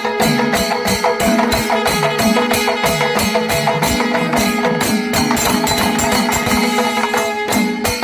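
Kerala temple melam, most likely chenda melam: chenda drums and cymbals beating in dense, fast strokes under sustained pitched notes that bend up and down.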